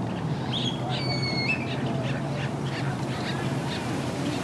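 Several birds calling, with one clear, level whistled note about a second in, over a steady low hum.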